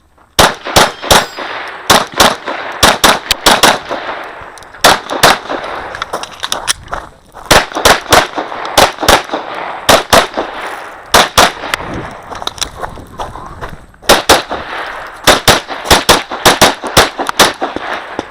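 Glock 34 9mm pistol fired in quick pairs and strings of shots, with short pauses between groups, each shot sharp with a trailing echo.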